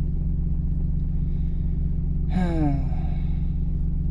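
Heavy farm diesel engine running steadily at constant speed, a low drone. About two and a half seconds in, a short voice sound falling in pitch, like a sigh.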